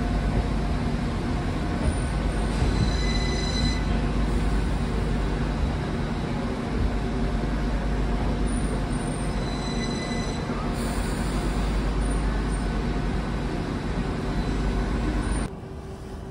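Northern passenger multiple-unit train running past along the platform: a steady low rumble of engine and wheels, with brief high-pitched squeals twice. Near the end the sound drops suddenly to a quieter rumble.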